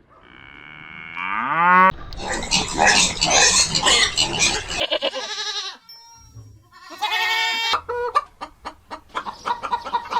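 Farm animals calling: a pitched call rising over the first two seconds, a loud harsh stretch of calling, then a shorter wavering call and a quick run of short calls near the end.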